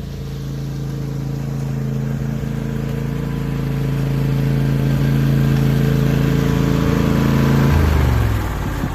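Craftsman DLT3000 lawn tractor engine running steadily at high throttle, then throttled back near the end, its pitch dropping to a lower steady run.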